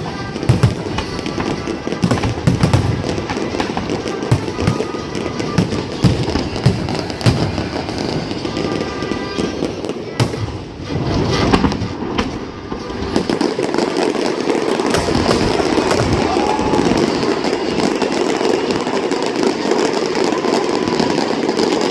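Fireworks display: shells bursting in quick succession, with low booms and sharp cracks, over music and crowd voices. After about 13 seconds the low booms thin out and a denser, steady crackling noise takes over.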